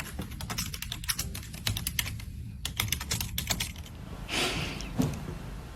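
Rapid, irregular light clicks and taps for about three and a half seconds, then a brief rustle and a single soft knock near the end.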